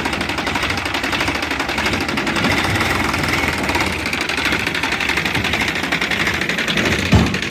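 Diesel tractor engine running steadily with a fast, even knocking beat, and a single low thump near the end.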